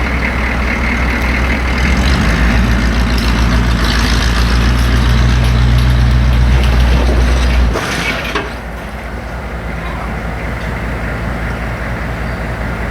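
A vehicle engine running steadily under load. It grows louder about two seconds in, then eases off sharply near eight seconds with a brief noise burst, and settles to a lower, quieter running.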